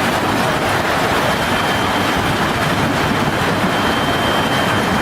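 Severe storm: a loud, steady rushing of driving rain and wind, with no let-up.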